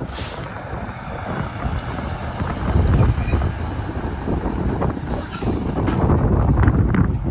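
Semi-truck driving past, a steady engine and tyre rumble that grows louder about three seconds in.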